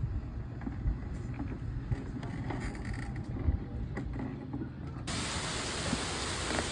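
Low rumbling with a few light knocks, then about five seconds in a steady heavy hiss of rain starts abruptly and holds.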